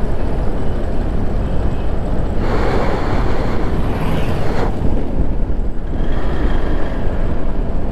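Wind buffeting the microphone and engine and road noise while riding a motorbike, with a louder rushing swell from about two and a half to nearly five seconds in.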